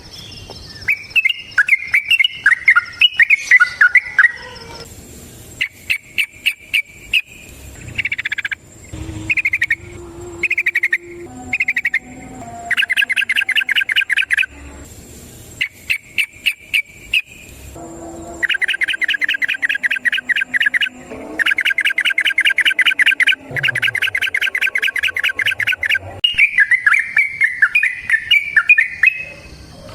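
Yellow-vented bulbul singing: bubbly warbled phrases at the start and near the end, and in between several long, very fast trills of repeated notes, the 'ropel' rattle.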